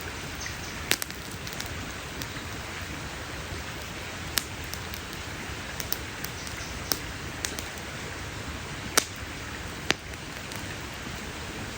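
Campfire burning: a steady soft hiss with sharp pops and crackles of burning wood every second or so, the loudest pops about nine and ten seconds in.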